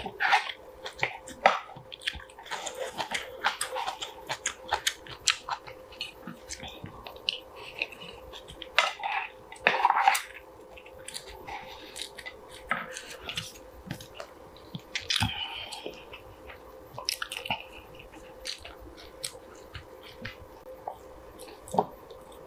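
Close-miked chewing and mouth sounds of someone eating soft braised kimchi stew with rice: many short wet clicks and smacks, and a few louder noisy bursts, the loudest about nine to ten seconds in.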